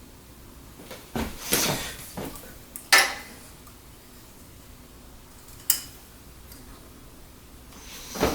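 Hard clattering knocks and clinks of computer case hardware being handled and set down, about six separate hits. The loudest come between about one and three seconds in, with another near the end.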